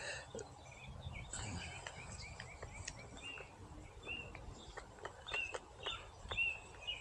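Outdoor ambience with small birds chirping on and off, a few short clicks, and a low rumble underneath.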